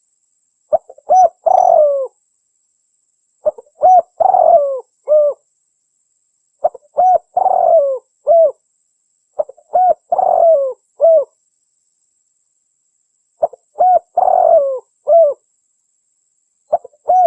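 Spotted dove (tekukur) cooing, in phrases of a few short coos and a longer drawn-out coo, repeated about every three seconds. It is a recorded lure call for drawing in wild spotted doves.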